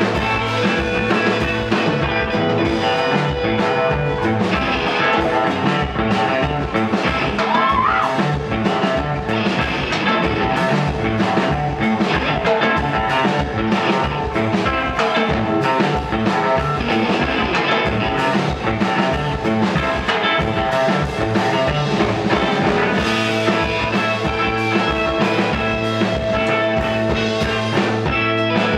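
Rock band playing live, electric guitars over a steady, driving drum beat.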